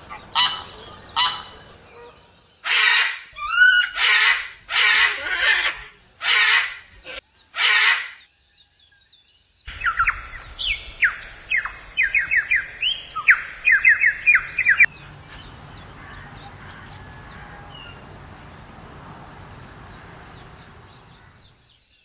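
Geese honking in a run of loud, separate calls. After a short pause a different bird gives rapid downward-sweeping chirps, which fade to faint scattered chirps over a quiet background.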